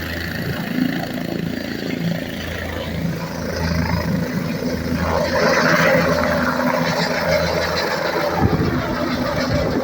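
Medical helicopter's turbine engine and rotor running steadily on the pad ahead of take-off: a low hum under a rushing noise that swells about four to six seconds in.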